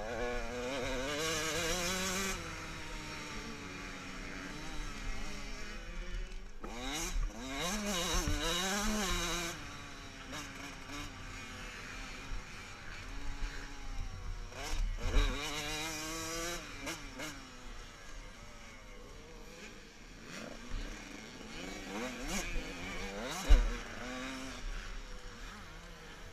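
Motocross bikes racing past, their engines revving up and falling back through gear changes. Several bikes pass close: at the start, about seven seconds in, and about fifteen seconds in. One sharp thump comes near the end.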